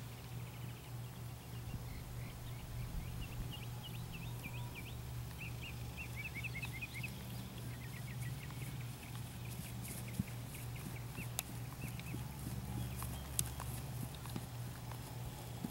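A bird chirping in quick runs of short notes, over a steady low hum. A few sharp clicks come near the end.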